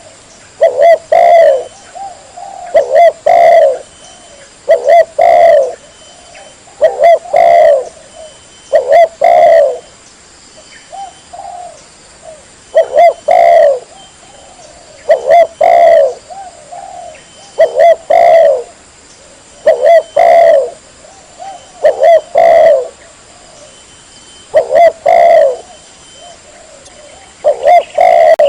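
Spotted dove (tekukur) cooing loudly and clearly, the same short multi-note coo phrase repeated about every two seconds: a lure call for drawing in wild spotted doves.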